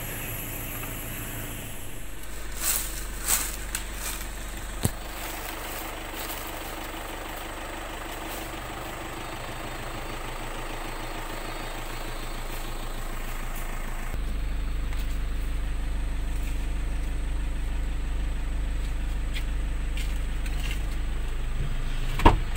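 Motor vehicle engine running steadily, with a low hum that grows louder about two-thirds of the way through. A few light knocks come early on, and a sharper knock comes near the end.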